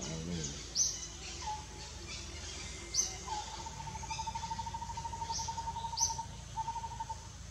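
Birds calling: short, sharp high chirps every second or two, and from about three seconds in a fast, even trill held on one pitch that breaks off briefly and resumes near the end.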